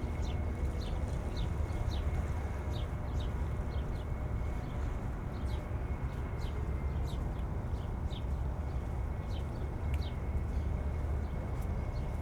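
Wind buffeting the microphones in a steady low rumble over waterfront ambience, with a run of short, high chirps or ticks about twice a second.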